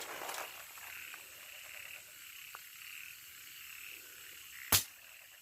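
A steady chorus of frogs croaking in repeated pulses, with one sharp, loud knock near the end.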